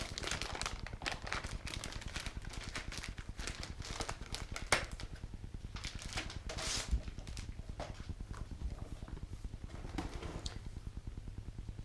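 Stiff laminated instruction manual being handled and leafed through: rustling with scattered light taps and clicks, over a low steady hum.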